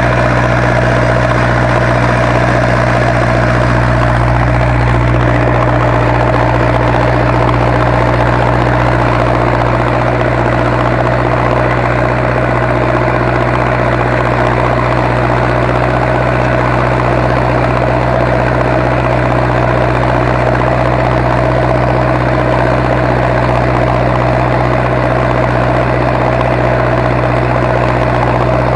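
Zetor 7245 tractor's four-cylinder diesel engine running steadily at constant speed while ploughing.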